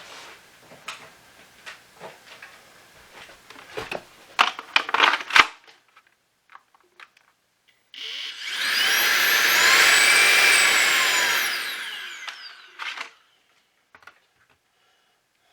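Plastic parts clicking and clattering as they are handled, then a small high-speed electric motor whirs up to speed and winds down again over about four seconds, with a few more clicks near the end.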